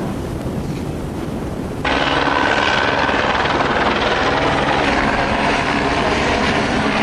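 Helicopter overhead: loud, steady rotor and engine noise that cuts in abruptly about two seconds in, where the recording jumps. Before that, softer wind and water noise.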